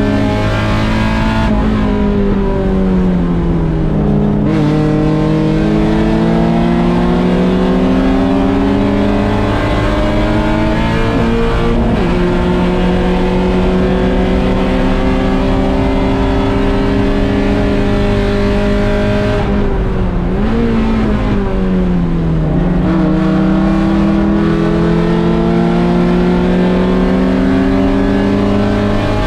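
1.6-litre Mazda Miata race car's four-cylinder engine heard from the cockpit, pulling hard with its pitch climbing slowly under load. Twice the note drops steeply as the car brakes and shifts down for a corner: a few seconds in, and again about two-thirds of the way through.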